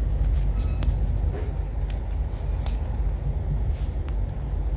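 Interior of a moving passenger train: a steady low rumble from the running train, with a few scattered sharp clicks and ticks.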